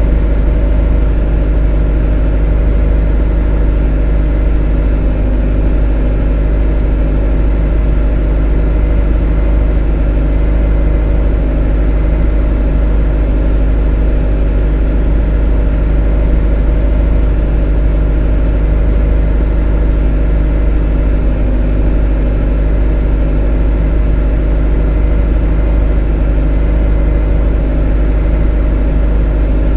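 A motor running at a steady speed: an even, unchanging low hum with several steady tones layered over it.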